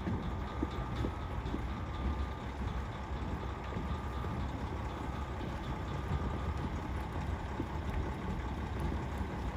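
KiHa 40 diesel railcar idling at the platform: a steady low engine rumble, with a faint thin whine in the first couple of seconds.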